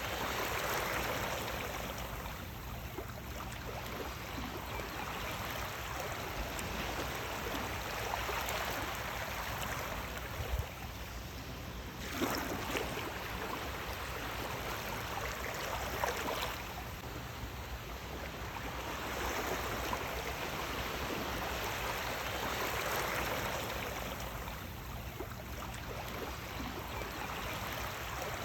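Sea waves washing ashore, the rush of water swelling and falling back every few seconds, with a few brief splashes.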